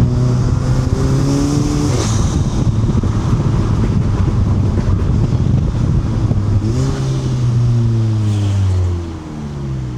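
Volkswagen Mk7 Golf GTI's turbocharged 2.0-litre four-cylinder, fitted with an ARM 4.5-inch downpipe, accelerating through the gears. The engine note rises, breaks at a gear change about two seconds in, and climbs again near seven seconds. It then falls away as the throttle is lifted near the end.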